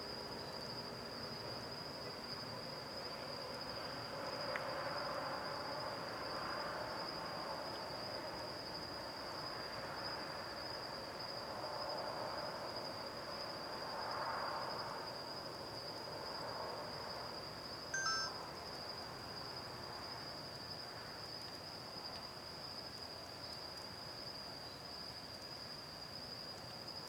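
Night insects, such as crickets, calling in a steady, unbroken, high-pitched chorus. Fainter ringing tones swell and fade underneath, and a short bright ping comes about two-thirds of the way through.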